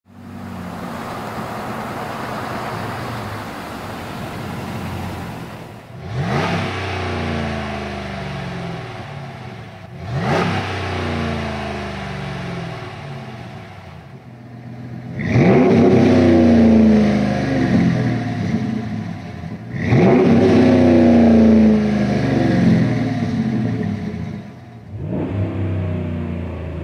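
Dodge RAM 1500's 5.7L Hemi V8 exhaling through a Flowmaster American Thunder stainless cat-back exhaust with a 50 Series HD muffler. The engine idles, then is revved five times, each rev a rising sweep in pitch. The third and fourth revs are held longest and are the loudest.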